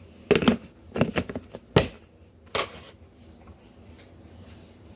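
A small spoon scraping and tapping against a dish as flour is scooped in, in a few short clatters over the first three seconds.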